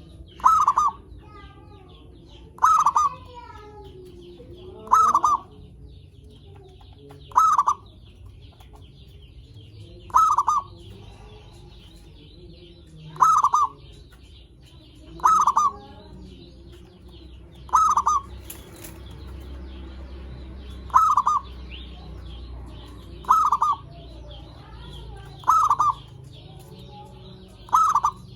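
Zebra dove (perkutut) cooing over and over, one short rolling coo about every two and a half seconds, about a dozen in all. A faint steady high chirring runs underneath.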